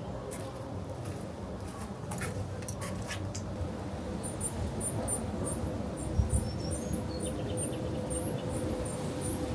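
A bird chirping: a quick series of short, high, rising chirps, about three a second, starting about four seconds in, over a steady outdoor background noise. A few sharp clicks sound in the first few seconds.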